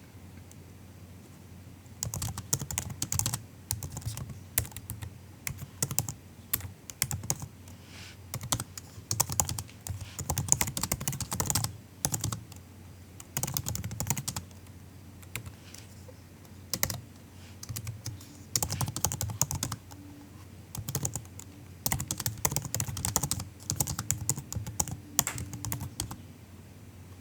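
Soft typing on a MacBook's laptop keyboard: quick runs of light key clicks with short pauses between them, starting about two seconds in and stopping shortly before the end.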